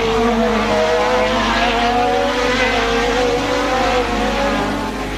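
1988 Formula One race car engines running at high revs, their pitch wavering up and down through the whole stretch.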